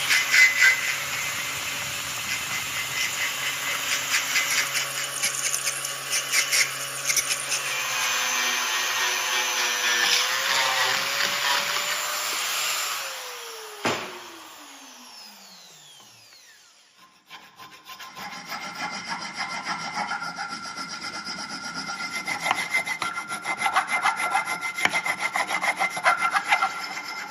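Steel being ground or sanded on a motor-driven abrasive tool, a dense scraping rasp. About 14 seconds in the motor is switched off and winds down with a falling pitch. After a short lull, scraping starts again with a steady whine in it.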